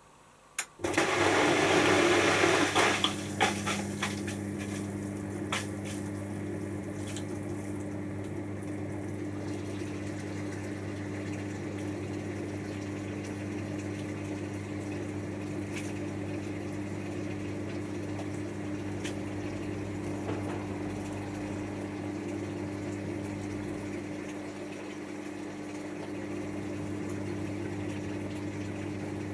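Hotpoint HF8B593 washing machine filling for its rinse: the water inlet opens with a click about a second in and water rushes loudly into the drum for a couple of seconds, then settles to a steady fill with a low hum underneath.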